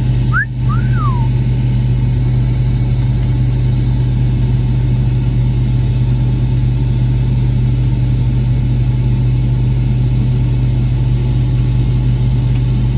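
Combine harvester running steadily while harvesting soybeans, heard from inside the cab: a constant low engine and machinery hum with rumble. A short gliding tone sounds briefly about half a second in.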